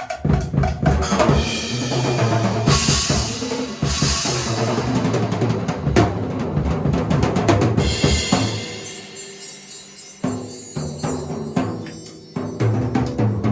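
A drum kit played in fast fills and rolls across the toms and snare, with bass drum and cymbal crashes; the playing eases off briefly twice near the end and picks up again.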